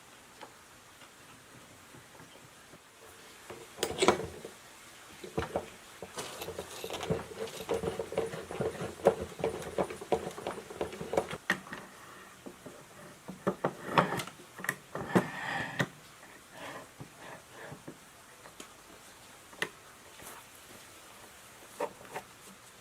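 Scattered clicks, knocks and clinks of hands handling small hard parts and tools, busiest in the middle stretch, with a few seconds of rubbing or scraping.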